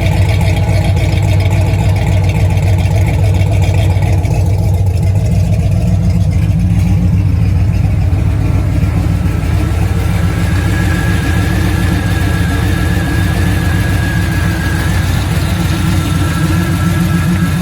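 LS V8 engine in a 1987 IROC running steadily at idle, a low even drone, with a faint steady high whine coming in about halfway through.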